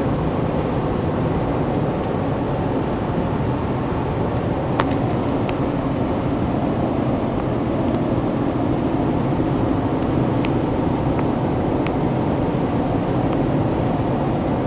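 Steady road and engine rumble inside a moving car's cabin, with a few faint clicks.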